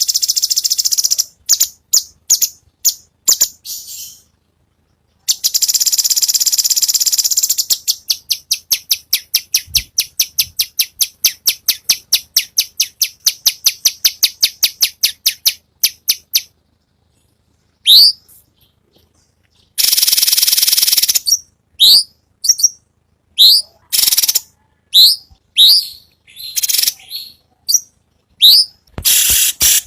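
A cucak cungkok songbird singing in loud, high-pitched phrases: fast rattling trills and chattering strings of sharp notes, then, from about 18 seconds in, repeated short swept whistles with short pauses between them.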